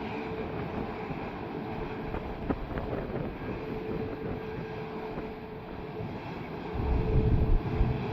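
Distant jet engines of an Airbus A340-600, its four Rolls-Royce Trent 500 turbofans, running with a steady whine over a wide rush. Wind buffets the microphone in low gusts near the end.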